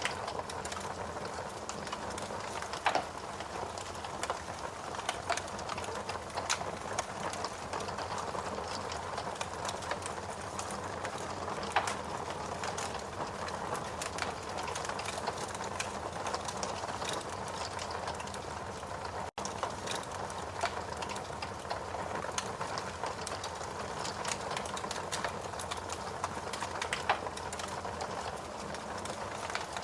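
Steady rain mixed with a wood fire crackling and popping in a fireplace; a few pops stand out louder than the rest.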